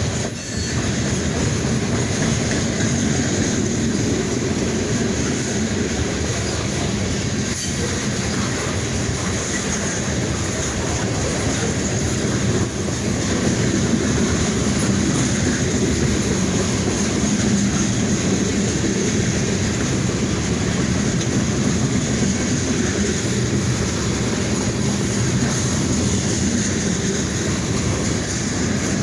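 Freight train rolling by on the rails: a steady wheel-on-rail rumble with clatter over the rail joints.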